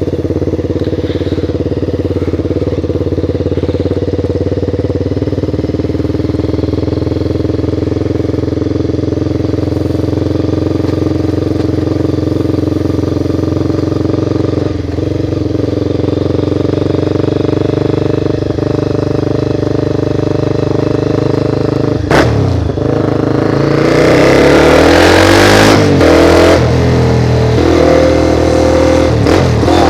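Honda CBR motorcycle engine idling steadily, then a sharp click about 22 seconds in, after which the engine revs up and pulls away, its pitch rising and dropping through several gear changes.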